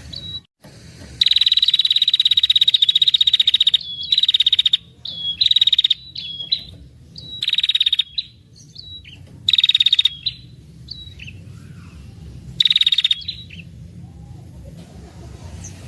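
A female red-headed prenjak gives a long, rapid, ticking trill, the drawn-out "ngetir" call used to lure males. It follows this with about five shorter trills of the same high pitch, each under a second long.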